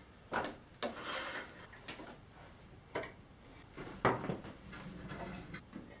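A few separate light knocks and clicks, as of metal parts and tools being handled at a workbench, with a short rustle about a second in.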